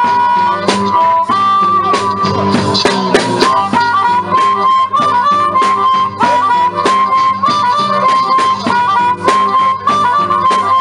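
Live blues played by a small band: a harmonica plays a solo line, mostly around one held note with short steps and bends in pitch, over a steady rhythmic accompaniment.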